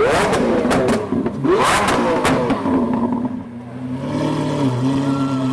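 Lamborghini Aventador S V12 with a Fi aftermarket exhaust revved hard twice, each rev climbing in pitch and ending in sharp exhaust pops and bangs. After that it settles into a steady, even engine note.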